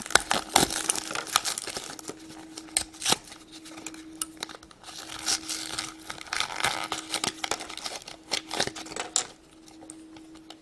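Hands handling and opening a small plastic Shopkins Basket toy and its packaging: irregular clicks and taps of hard plastic with some crinkling, over a faint steady hum.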